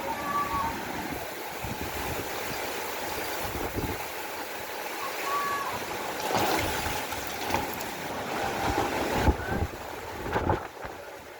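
Steady rushing of rainstorm water and wind, with wind gusting on the microphone and two brief high chirps, one near the start and one about halfway through.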